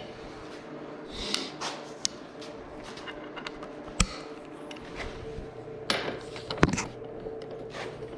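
Metal tools being handled while working on a dirt bike: scattered clicks and clanks, with a sharp knock about four seconds in and another a couple of seconds later, over a steady background hum.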